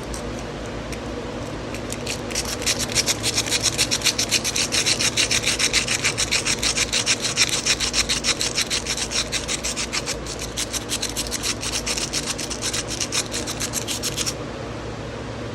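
Rough sandpaper scrubbing rust out from inside an old carbon-steel pocket knife, in fast back-and-forth strokes of about five a second. The scrubbing starts about two seconds in and stops shortly before the end, over a steady low hum.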